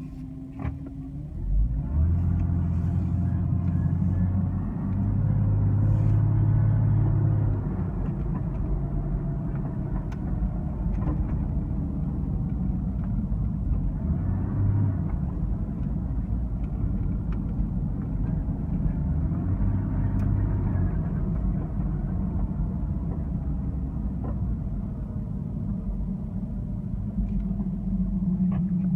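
2002 Porsche 996 Cabriolet's flat-six running under way, a steady low rumble with a low droning hum that swells and fades several times, loudest in the first several seconds; this car makes a strange noise whose cause is unknown.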